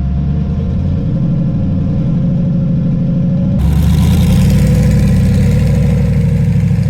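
Twin-turbo Camaro's engine running loud and steady at low speed with a pulsing low note. About halfway through the sound turns abruptly brighter and slightly louder.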